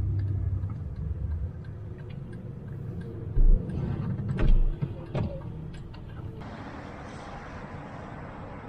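Car running on the road, heard from inside the cabin as a steady low rumble, with a few sharp thumps about halfway through. About two-thirds in the sound switches abruptly to a steady, even hiss.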